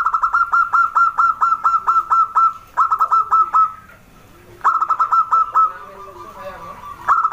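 Zebra doves (perkutut) calling: bursts of quick, evenly repeated high notes, about five a second. A long run opens the sound, and shorter runs follow about three seconds in, near five seconds and at the end, with fainter, lower arched notes between them.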